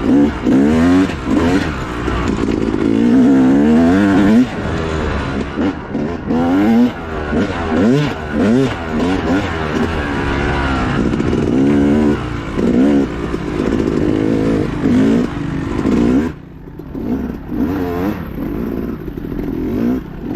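Dirt bike engine ridden hard, its pitch rising and falling again and again as the throttle is worked. About sixteen seconds in, the throttle is chopped and the sound drops off briefly before the engine picks up again.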